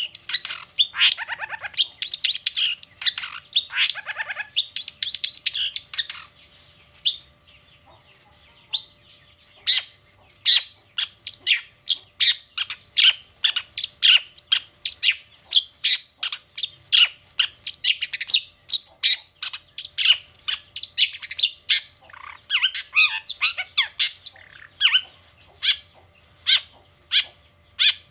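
Long-tailed shrike (cendet) singing a fast, varied song of sharp chattering notes. A few buzzy, falling phrases come in the first seconds, and after a short pause about seven seconds in there is a long run of rapid clipped notes.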